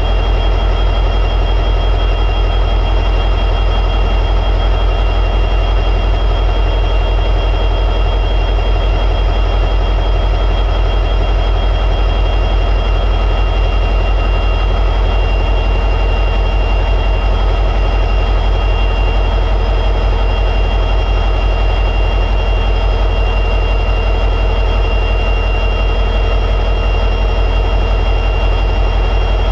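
EMD 710G3B two-stroke diesel prime mover of an SD60E locomotive running steadily in high idle, a deep even throb with a steady high whine over it.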